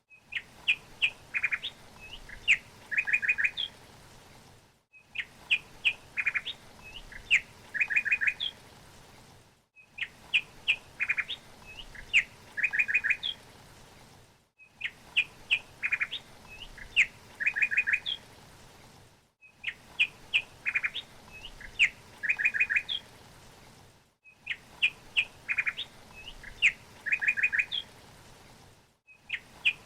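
A songbird chirping in quick runs of short repeated notes, the same phrase recurring about every five seconds with a brief silent break between repeats, as in a looped recording, over a faint steady hiss.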